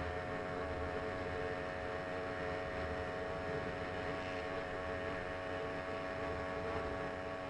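Small engine of a motorized bicycle running at a steady speed, holding one pitch with a slight waver.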